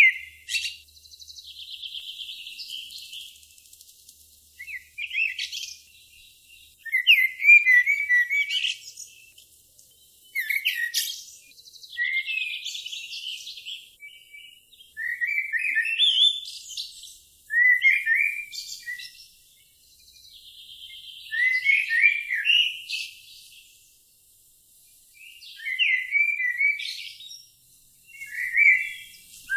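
A songbird singing short, high twittering phrases every two to three seconds, several with a fast buzzy trill.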